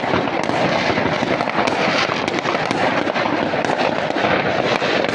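Many fireworks and firecrackers going off at once: a dense, continuous crackle of overlapping pops and bangs with no pause.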